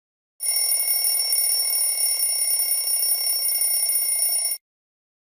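Telephone bell ringing continuously with a rapid, even trill. It lasts about four seconds, then cuts off abruptly.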